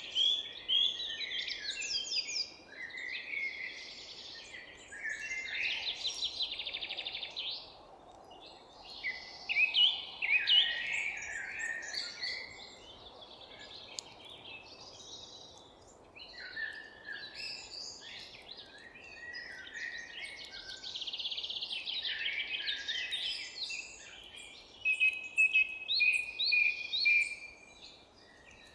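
Several songbirds singing at once in a forest dawn chorus: overlapping chirps, quick trills and whistled phrases, over a faint steady background hiss.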